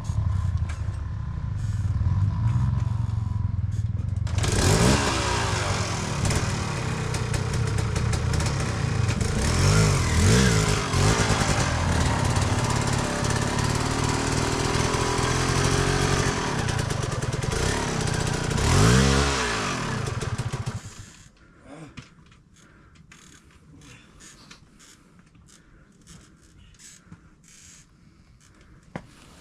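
Dirt bike engine running over rough ground, revving up and down several times with rattling. About two-thirds of the way through, the engine sound stops abruptly, leaving only faint clicks and rustling.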